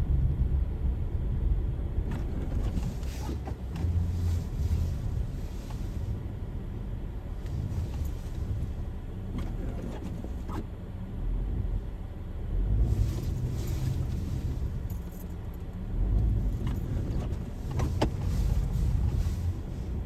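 Car driving on a snowy road, heard through a dash cam: a low, uneven rumble of road and engine, with a few sharp clicks and rattles, the loudest about 18 seconds in.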